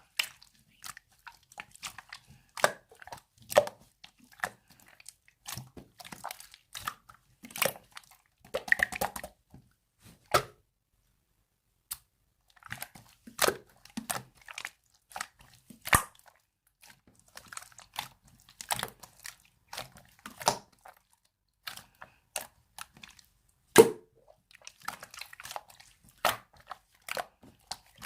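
Two-layer slime being pressed and squished by hand, giving irregular sharp pops, clicks and crackling crunches with short pauses between handfuls.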